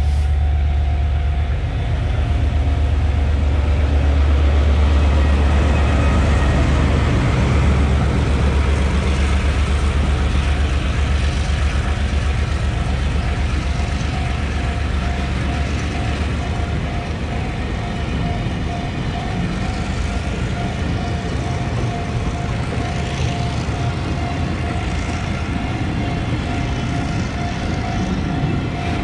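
Taiwan Railway diesel-electric freight locomotive pulling away from a station and passing close by with a deep engine drone, loudest a few seconds in. It is followed by a long string of loaded flatcars rolling past, wheels clicking rhythmically over the rails, with a steady whine throughout.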